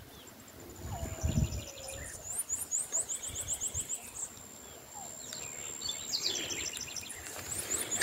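Birds calling outdoors: rapid runs of short, high rising chirps, about eight in a row two to three seconds in and more near the end, over a thin steady high tone. A few low thumps come about a second in.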